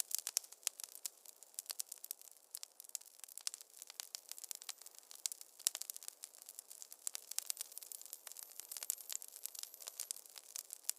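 Wood fire crackling in a fireplace: a steady stream of many small, irregular pops and snaps over a faint hiss.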